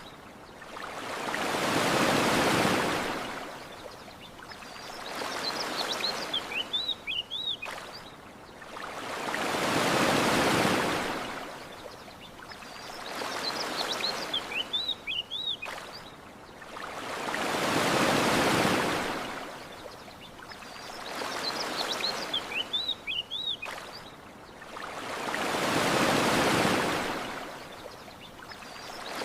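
Ocean waves washing onto a shore in slow swells, a big one about every eight seconds with a smaller one between, and short bird chirps in the lulls between waves; the pattern repeats identically, as a loop.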